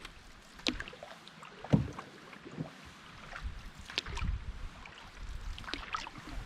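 A canoe being paddled: paddle strokes splashing and dripping in the water, with several short, sharp knocks and splashes spaced irregularly about a second or so apart.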